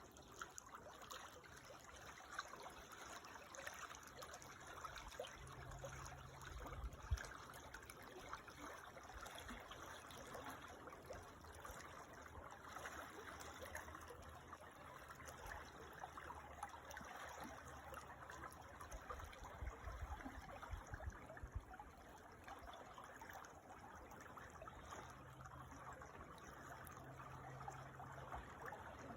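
Creek water trickling and babbling steadily, faint, with one sharp tick about seven seconds in.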